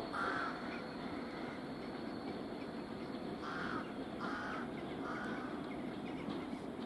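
A crow cawing four times in short, harsh calls, over a steady low rumble.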